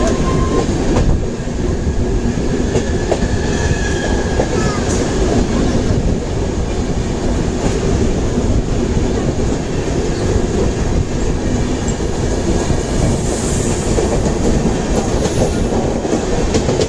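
Rajdhani Express passenger coaches running on the track, heard from on board: a steady rumble of wheels on rail with clickety-clack over rail joints and brief, faint wheel squeals.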